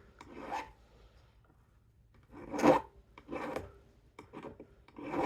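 Hand filing on a small sterling silver jewellery piece: a handful of short, uneven rasping strokes with pauses between them.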